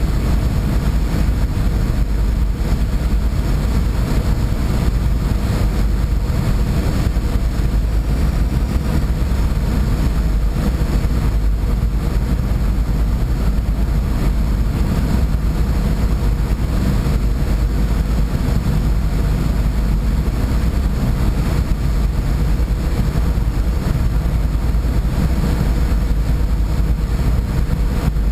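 A boat's engine running steadily underway: a constant low drone with a steady rushing noise over it.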